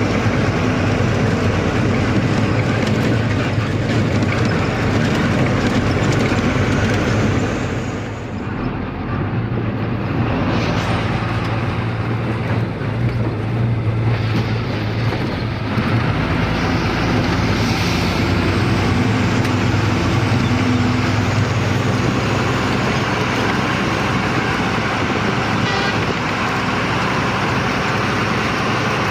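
Truck engine running on the road with tyre and road noise, heard from inside the cab. The sound drops briefly about eight seconds in, then comes back up.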